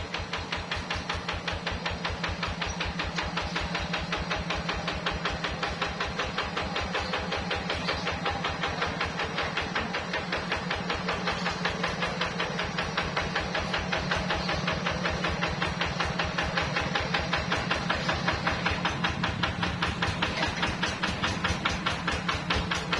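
Hand tractor's diesel engine running steadily, a rapid, even thumping from its exhaust pulses.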